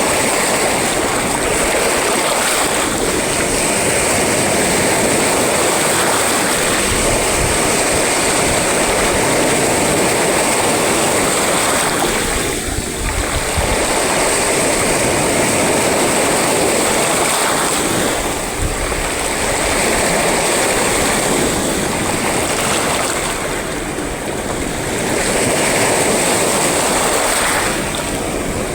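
Sea waves breaking and washing on the shore in a continuous rush of surf. The noise swells and eases, with short lulls every five or six seconds.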